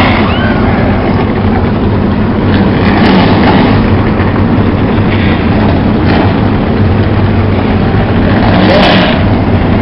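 A field of NASCAR stock car V8 engines running together just after being fired up, loud and steady, with occasional revs standing out.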